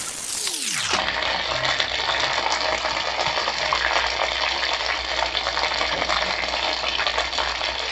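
Chicken necks frying in hot oil: a steady, dense sizzle full of small crackles and pops. A short falling sweep comes in the first second.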